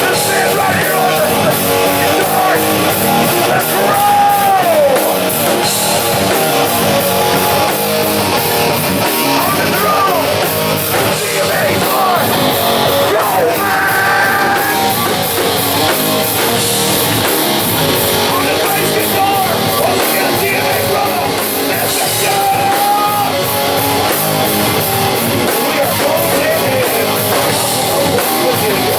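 Live rock band playing loudly: electric guitar with bending, sliding notes over drums and cymbals.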